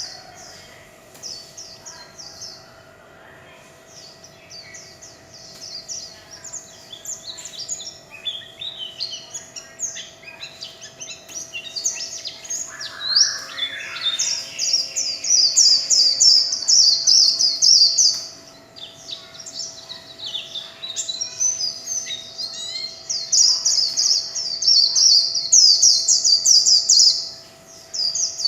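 White-eye (vành khuyên) singing a long, rapid, high-pitched warbling song in the 'líu chòe' style, sparse at first, then fuller and louder from about halfway through, with a couple of brief pauses.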